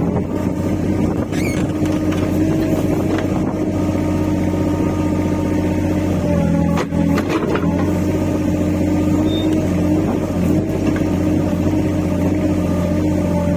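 Mini excavator's diesel engine running steadily, its note shifting and briefly dipping about halfway through as the hydraulics take load, with a couple of knocks around then.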